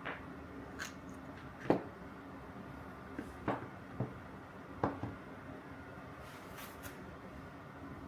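Reciprocating saw parts and tools being handled during reassembly: about eight scattered clicks and knocks, the loudest near two seconds in, over a faint steady hum.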